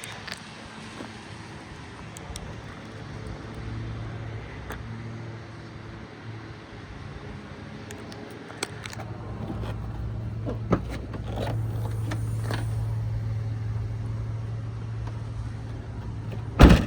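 2018 Hyundai Tucson SEL's engine idling with a steady low hum that grows a little louder about two-thirds of the way through, under a few light clicks. A single loud thump comes near the end.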